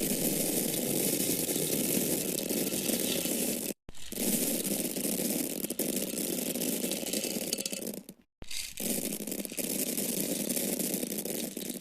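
Dried grains or corn kernels falling in a steady, continuous stream. The sound stops abruptly twice, just before four seconds in and again around eight seconds, and starts again each time.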